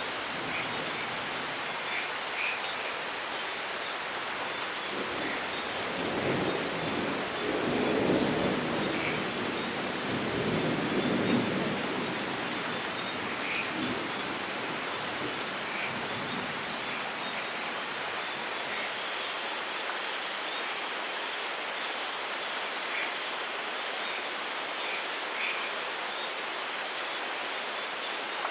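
Steady rain falling, with a roll of thunder that rumbles in about a fifth of the way through, swells twice and dies away by about halfway.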